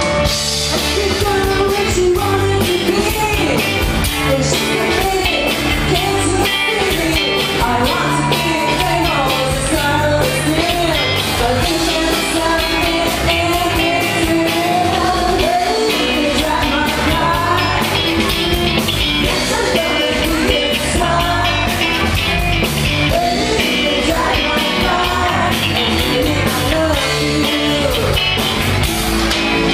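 Live rock band playing, with a sung vocal over electric guitar and drums.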